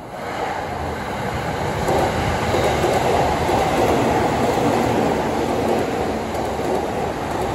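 JR East electric commuter train running along the rails close by. The rumble of wheels on track grows over the first couple of seconds, then holds steady.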